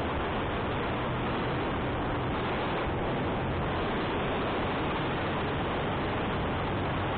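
Steady wind noise rushing over the microphone of a moving motorcycle, with the motorcycle's engine humming low and steady underneath as it climbs uphill.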